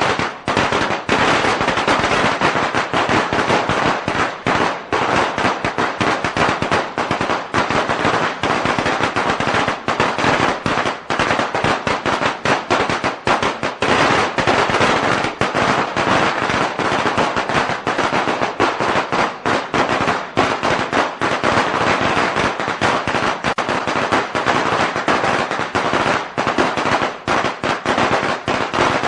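A string of Chinese firecrackers going off in a rapid, unbroken run of sharp cracks.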